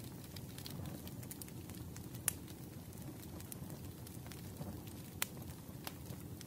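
Crackling wood fire in a fireplace: a steady low rumble of flames with scattered sharp pops, the loudest about two seconds in and again about five seconds in.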